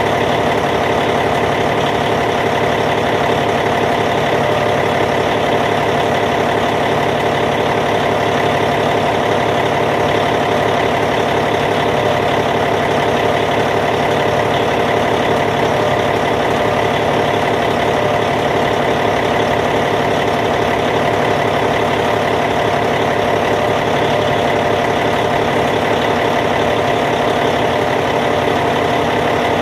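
Caterpillar C15 inline-six diesel engine of a Cat D8T bulldozer idling steadily, an even, unchanging idle.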